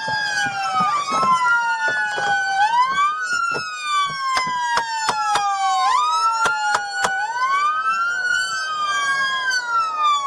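British police car sirens wailing, two slow rising-and-falling wails out of step with each other, with scattered sharp clicks over them.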